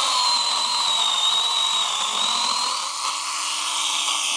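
Stihl battery-powered mini pruning chainsaw running at speed with a steady high whine, its pitch dipping slightly and then coming back up.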